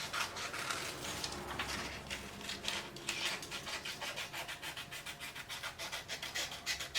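Scissors cutting through cardstock: a steady run of quick snips with the paper rustling and scraping as it is turned.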